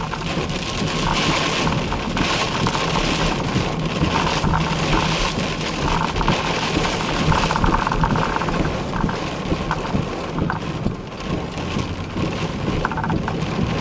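Rain on a moving car, a steady hiss over the low hum of the engine and tyres.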